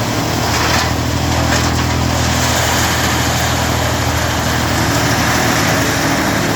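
Wood chipper / chaff cutter machine running steadily, a low engine-like hum under an even rushing noise.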